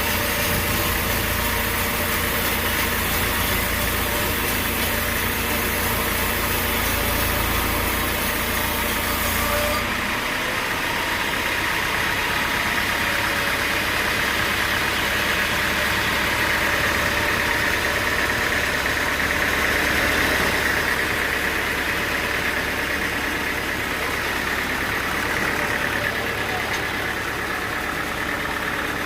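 Engine running steadily, its sound changing about ten seconds in.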